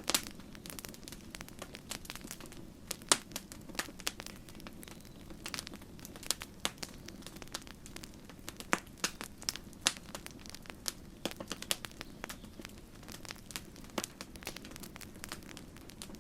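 Campfire crackling: wood burning with a steady low hiss and irregular sharp pops and snaps, several a second, the loudest pop about three seconds in.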